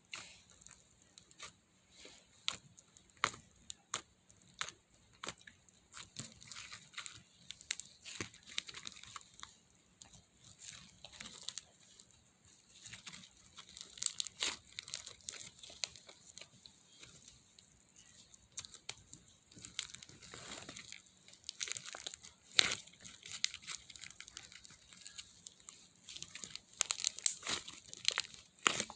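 Slime being squeezed, stretched and poked by hand, giving irregular sticky crackles, pops and clicks.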